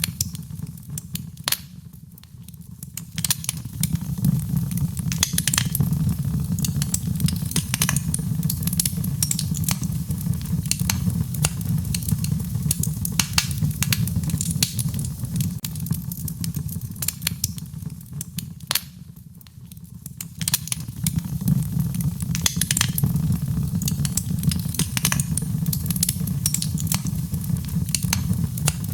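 Wood fire in a fireplace crackling with frequent sharp pops and snaps over a steady low rumble, mixed with gentle rain. The background dips briefly twice, about two seconds in and again past the middle.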